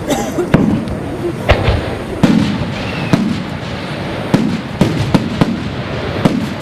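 Fireworks display: aerial shells bursting in an irregular series of sharp bangs, about nine in six seconds, over a steady hiss.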